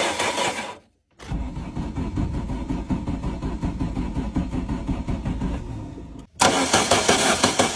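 Car engine being cranked over by the starter without catching, a steady rhythmic churning broken by two brief gaps: the engine is getting no spark.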